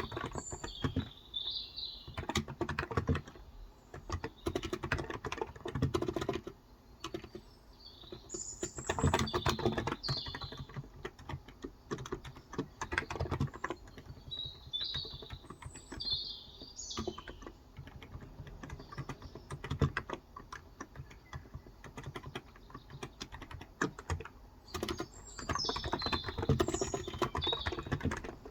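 Typing on a Cox Endeavor electrostatic-capacitive keyboard with 35 g switches: uneven runs of keystrokes with short pauses. Birds chirp in the background in several short bouts.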